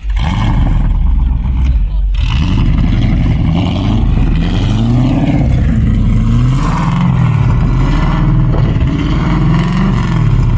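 Car engine revving loudly, its pitch climbing and dropping again and again from about two seconds in.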